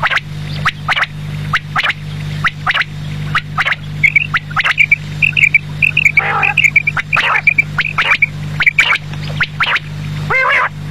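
Quail (batair) calling: many short, sharp calls repeated in quick succession, with a run of quick high notes in the middle, over a steady low hum.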